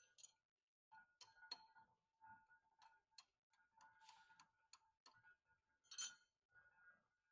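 Faint clicks and ticks, the sharpest about six seconds in, over a faint whine that comes and goes.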